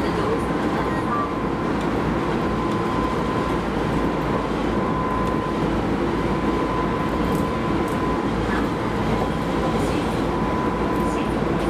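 Keisei Line rapid train running at speed, heard from inside the car: a steady rumble with a steady high whine and a few faint clicks.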